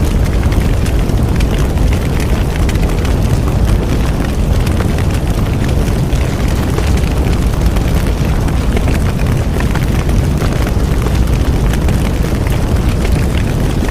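Large bonfire burning steadily: a deep, even rumble of the flames with many small crackles and pops from the burning wood.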